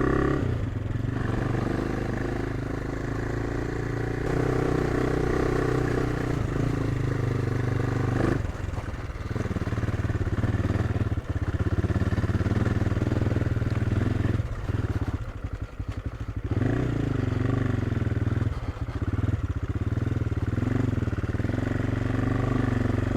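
AJP PR7's single-cylinder four-stroke engine running under load as the motorcycle climbs a stony track at low speed. The throttle eases off briefly about a third of the way in and again just past the middle.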